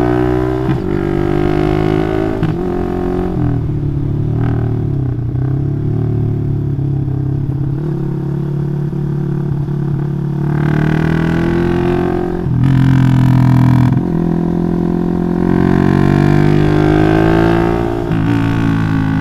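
Motorcycle with a bored-up 180cc engine running through a Requsan Special aftermarket exhaust while being ridden. The engine note rises and falls repeatedly as the throttle is opened and closed, with several louder surges in the second half.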